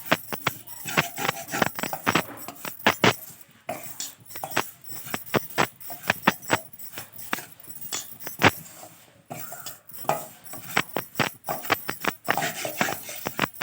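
A spoon knocking and scraping against a pan in irregular clicks, a few a second, as spice powders are stirred and roasted on low heat until their raw smell cooks off.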